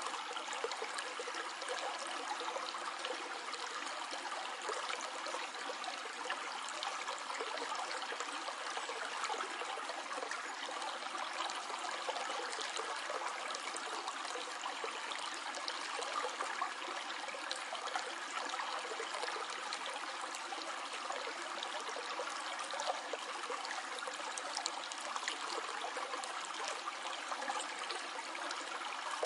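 Shallow stream flowing steadily over stones, an even rush of water with small trickling splashes.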